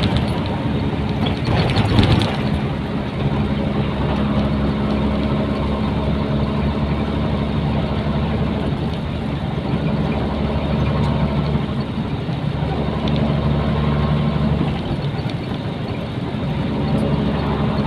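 Nissan Diesel container truck's diesel engine running steadily on the move, with a brief louder rush about two seconds in.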